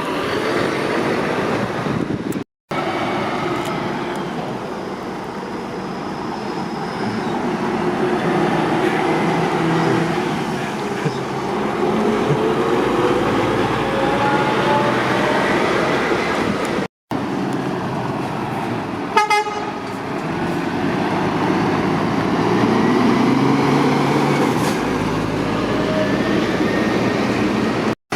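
Heavy lorries and traffic passing, with engines and tyres making a steady roar and engine notes sliding up and down as trucks go by. A short horn toot comes about two-thirds through. The sound cuts out abruptly twice along the way.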